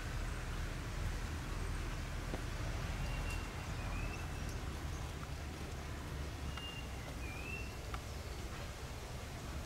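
Outdoor garden ambience: a steady low rumble, with a small bird giving two short high chirps, each dipping in pitch at the end, about three seconds in and again about six and a half seconds in.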